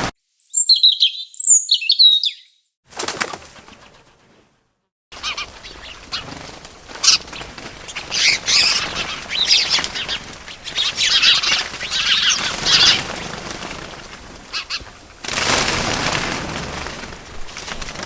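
Small birds chirping, with quick sweeping calls at first, then, after a short gap, a busier stretch of chirps mixed with fluttering wing beats.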